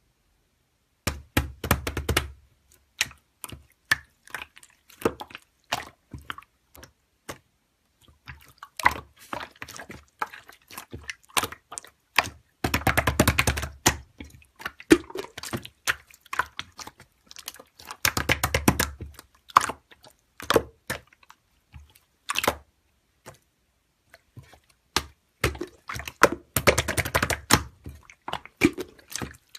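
Slime being squished and worked by hand: rapid irregular clicky pops and wet squelches, coming in clusters with a few heavier, denser bursts.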